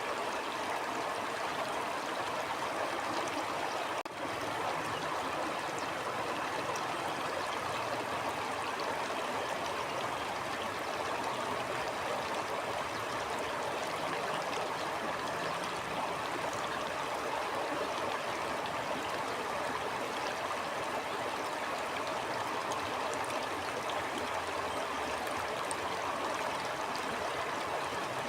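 Stream water flowing steadily, a continuous even babble of running water.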